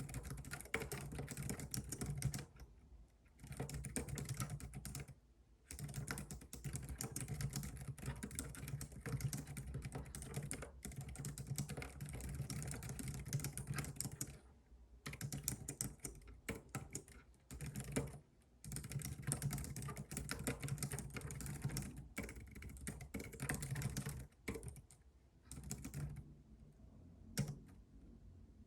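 Computer keyboard typing in fast runs of keystrokes lasting several seconds, broken by short pauses, with a few single key taps near the end.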